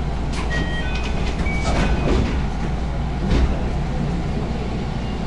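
Inside a JR West 221 series electric train standing at a station: a steady low hum from the train's equipment. Several short clicks and hisses with brief high tones come in the first few seconds.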